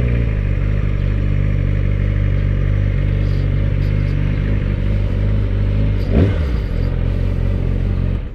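Yamaha R6's inline-four engine running at a steady speed while the bike is ridden, with wind noise over the microphone; a short burst of noise about six seconds in, and the sound cuts off abruptly near the end.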